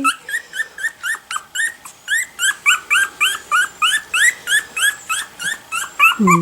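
Two-week-old Miniature Schnauzer puppy squeaking, a fast run of short, rising, high-pitched squeaks at about four to five a second, as it wakes to its mother's scent.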